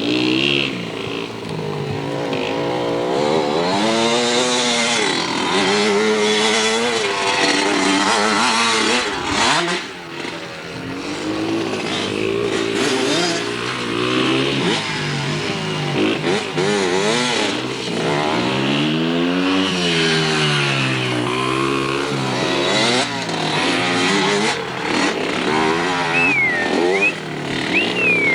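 Dirt bike engines revving up and down over and over, the pitch climbing and falling as the bikes ride around. A short high whistle is heard near the end.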